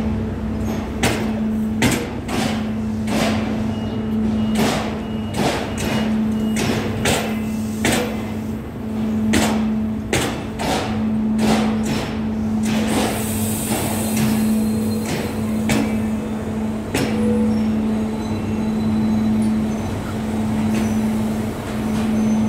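DB Class 614 diesel multiple unit rolling into a station, its wheels knocking over rail joints and points in an uneven series of sharp clacks over a steady engine drone. A brief hiss comes about thirteen seconds in.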